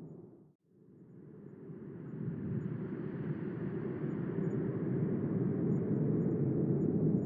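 Low rumbling wind noise that fades out to a brief silence about half a second in, then swells back and builds steadily louder.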